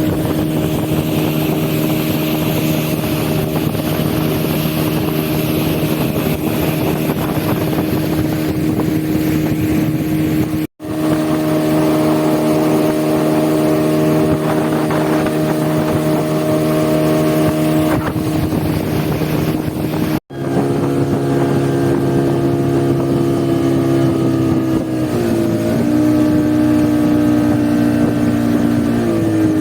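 Motorboat engine running at a steady pitch over wind and water hiss. The pitch dips briefly twice near the end as the throttle eases, and the sound cuts out for an instant twice.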